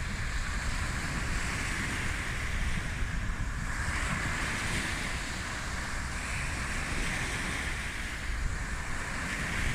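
Sea waves washing onto the shore, swelling and easing every few seconds, with wind buffeting the microphone as a low rumble.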